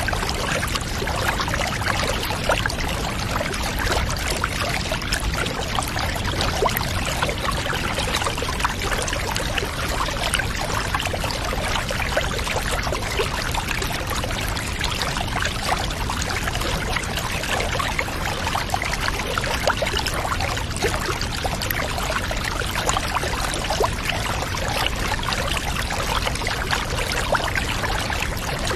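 Water pouring and trickling steadily, a constant rush with fine droplet detail.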